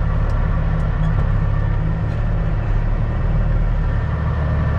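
Semi truck's diesel engine running steadily at low revs, a low drone, while the truck creeps through a tight manoeuvre.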